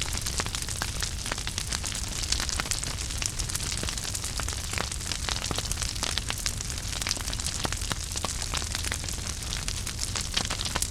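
Wood fire burning in a fireplace, crackling with many small, irregular pops over a steady low rumble of the flames.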